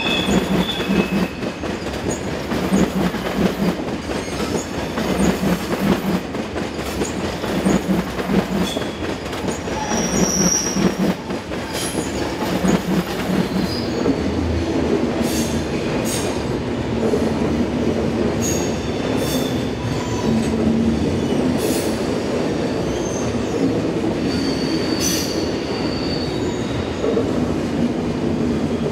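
Double-deck passenger trains rolling slowly through the station. For the first half the wheels clatter in a regular rhythm over rail joints and points. Later comes a steadier rumble, with short high-pitched wheel squeals and sharp clicks scattered throughout.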